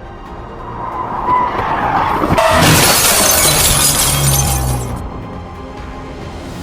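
Vehicle crash: a skid builds, then a loud crash with shattering glass and metal about two and a half seconds in, lasting about two seconds, over background music.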